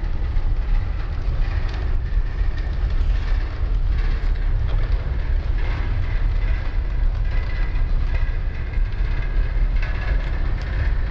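Freight train cars rolling past at close range: a steady heavy rumble of steel wheels on the rails with some clicking, and a faint high squeal that comes and goes.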